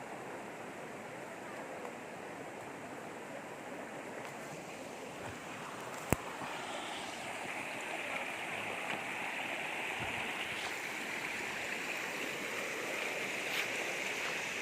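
River water flowing in a steady rush, growing a little louder and brighter in the second half, with a single sharp click about six seconds in.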